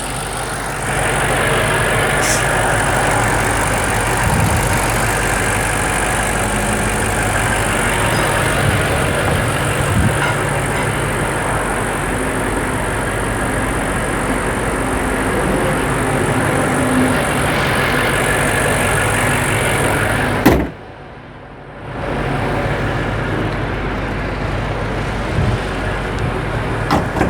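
BMW 4.4-litre twin-turbo V8 idling steadily. A sharp knock comes about twenty seconds in, followed by a brief drop in the sound before the idle returns.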